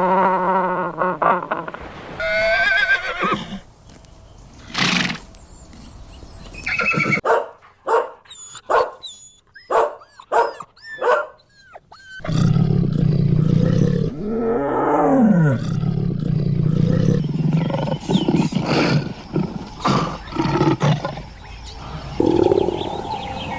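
Several different animal calls one after another, among them horse whinnies with a wavering pitch, and a run of short chirps in the middle.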